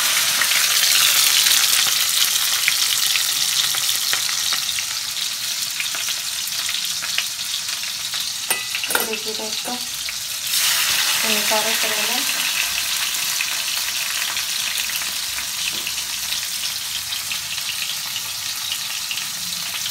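Boiled bitter gourd (karela) frying in hot oil in a kadhai: a steady sizzle, easing briefly near the middle.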